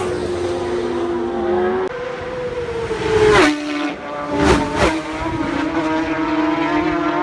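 Racing motorcycles passing at high speed, engines running hard. One close flyby about three seconds in drops sharply in pitch as it goes past, and two more quick passes follow a second or so later. Between the passes a steady engine note carries on.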